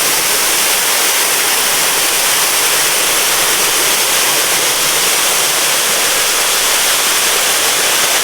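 Manoa Falls pouring heavily, a steady, loud rush of falling water. The fall is running super strong, swollen by a week of rain.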